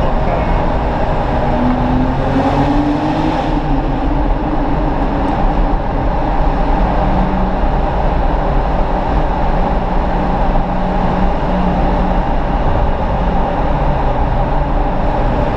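BMW 135i's turbocharged straight-six with a Performance exhaust, pulling through a road tunnel and heard from inside the cabin over steady, loud road noise. The engine note rises in pitch a couple of seconds in, then holds fairly steady.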